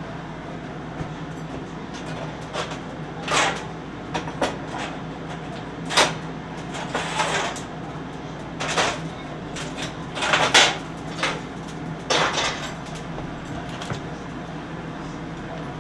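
Kitchen handling sounds: a string of short scrapes, rustles and knocks, with a sharper clack about six seconds in and a louder scraping pair around ten seconds, over a steady low hum.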